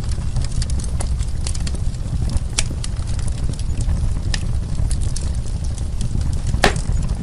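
Wood fire burning, with a steady low rumble under scattered crackles and pops of burning wood. One louder pop comes near the end.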